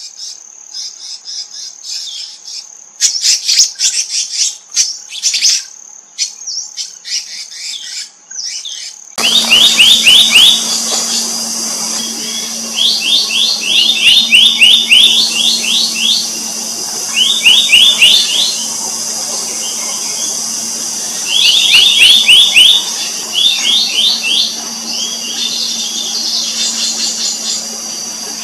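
Black-naped monarchs calling: rapid series of short, sharp high notes in bursts of a second or so, repeated every few seconds over a steady high insect drone. An abrupt cut about nine seconds in brings a steady low hum and more background hiss.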